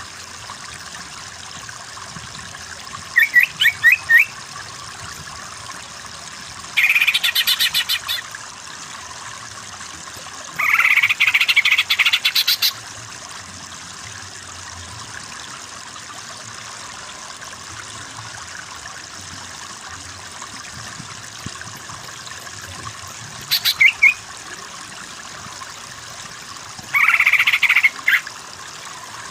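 Greater green leafbird (cucak ijo) singing in five short bursts of rapid, chirpy, warbling phrases, the longest about two seconds. A steady water-like rush runs underneath.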